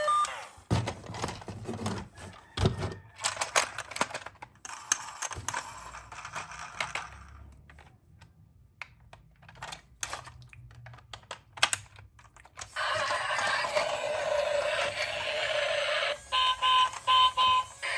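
Irregular clicks and clacks of toys being handled, then a steady electronic toy sound effect with a few short beeps near the end.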